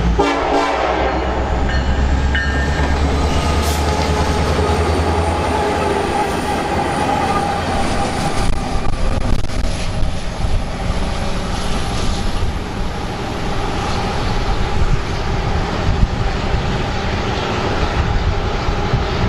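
Diesel freight locomotives passing close with a heavy low engine drone that fades after about five seconds. Then the steady rumble and clatter of the train's wheels rolling over the rails.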